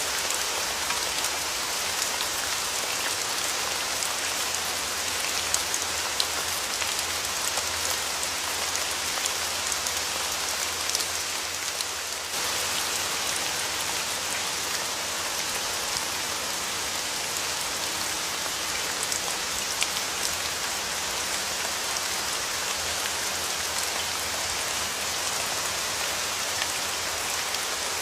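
Steady rain falling, a constant hiss with many small, distinct drop impacts, dipping slightly in level about twelve seconds in before coming back.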